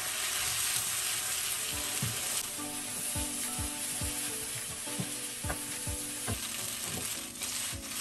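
Rice noodles and toppings sizzling in a hot non-stick wok while a spatula stirs and tosses them. Soft background music with a steady beat comes in about two seconds in.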